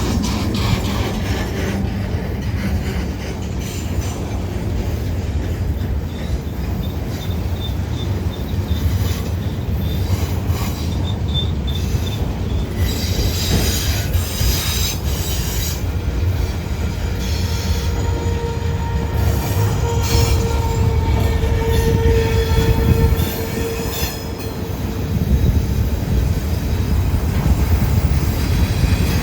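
CSX freight train rolling past with a steady heavy rumble, its wheels squealing on the rails. There are shrill squeals about 13 seconds in, then a steady squeal from about 17 to 24 seconds in.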